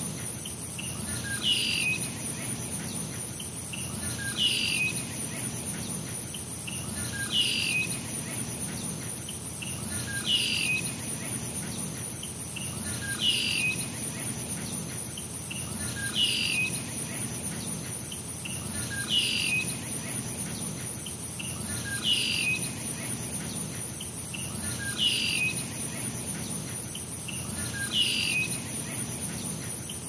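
A bird call repeats about every three seconds, each one a short note dropping in pitch. Under it runs a steady high insect trill, like crickets or cicadas.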